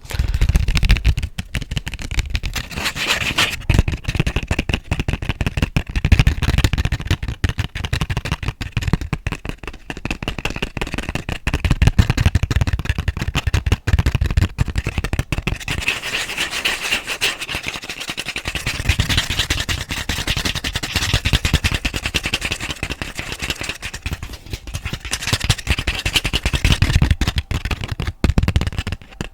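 Fast, aggressive scratching and tapping directly on a sensitive microphone: a dense, rapid crackle of scrapes and knocks with deep thuds.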